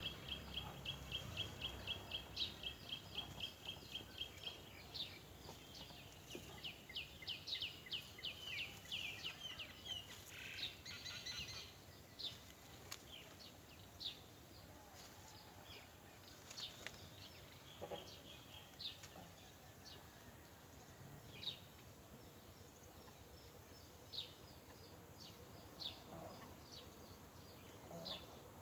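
Small birds chirping: a fast, even run of high chirps, about five a second, for the first few seconds, then a dense spell of quick falling chirps, thinning to occasional single chirps after about twelve seconds.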